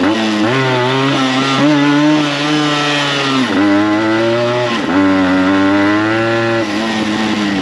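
Yamaha RX100 single-cylinder two-stroke engine with an expansion-chamber exhaust, ridden under load: the revs climb and fall, dropping sharply twice, about three and a half and five seconds in, then pulling up again.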